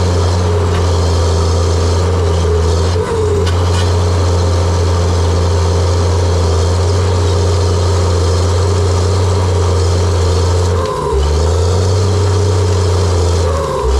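John Deere 700J-II crawler dozer's diesel engine running steadily with a loud low drone, the note dipping briefly about three seconds in and again near eleven seconds.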